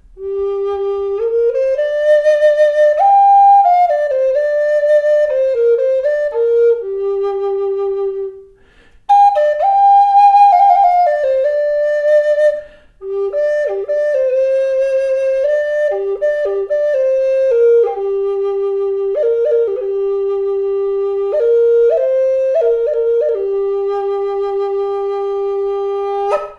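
Native American flute in G minor, carved from Spanish cedar, playing a slow melody in three phrases with short breaks between them and ending on a long held low note.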